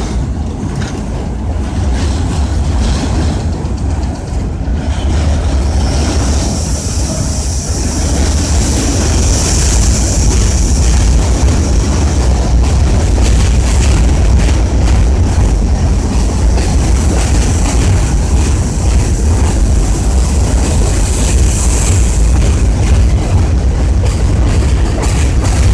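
New York City subway train running on the elevated steel structure: a loud, steady rumble, with a high-pitched wheel squeal that comes in about six seconds in and swells twice.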